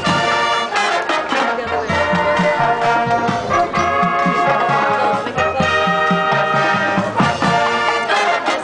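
Marching band brass section playing a loud passage with sustained horn chords over a steady drum beat.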